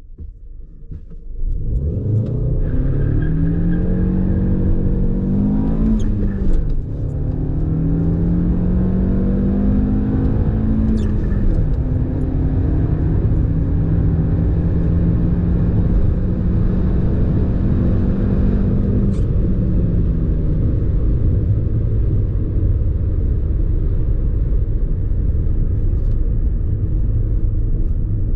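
VW Golf Plus 1.4 TSI twincharged four-cylinder engine accelerating hard from a standstill through the gears. The pitch climbs and drops at the gear changes about six and eleven seconds in, then rises through a long pull. About nineteen seconds in it eases off into a steady low drone.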